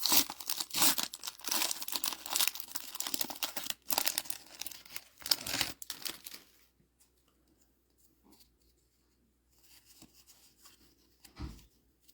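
A trading-card booster pack wrapper being torn open and crinkled for about six and a half seconds, then a few faint rustles and a soft thump near the end.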